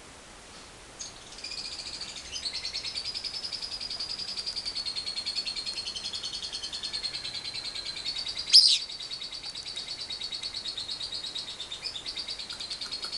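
Lovebird giving a long ngekek: a fast, even trill that starts about a second in and is held for more than ten seconds. One sharp click comes about two-thirds of the way through.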